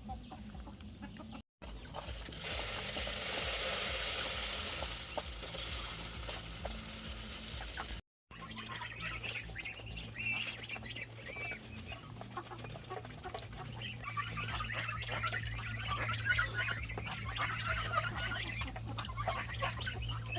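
Chickens clucking and chirping, many short calls, busiest in the second half. Before that a steady hiss is the loudest sound, and the audio drops out briefly twice.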